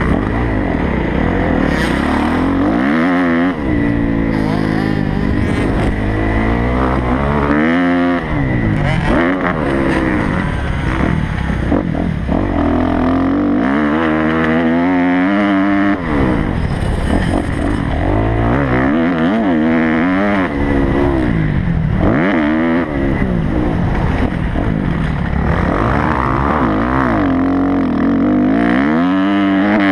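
Kawasaki motocross bike's engine under hard riding: the revs climb and drop back again and again, every few seconds, as the throttle is opened and shut.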